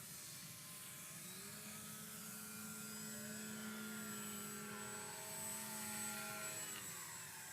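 Electric motors and propellers of Multiplex FunCub RC airplanes in flight, a steady buzzing whine of several tones whose pitch drifts and slides down about six and a half seconds in as the planes pass and change throttle.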